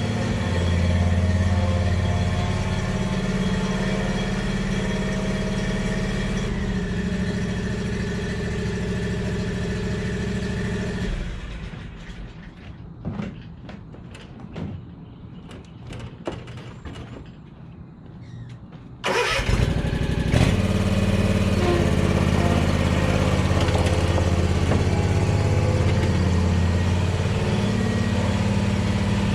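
Lawn mower engine running steadily, then cutting off about eleven seconds in, leaving a quieter stretch with scattered clicks and knocks. The engine comes back abruptly about eight seconds later and runs steadily again.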